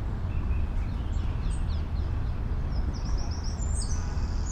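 Small songbirds singing in spring: a few short falling chirps, then a quick run of high notes and a trill near the end, over the steady low rumble of distant city traffic.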